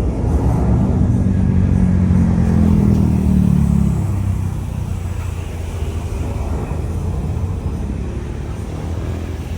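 Jet airliner's engines passing close by: a loud low rumble whose pitch slides down over the first four seconds, then settles into a steady rumble.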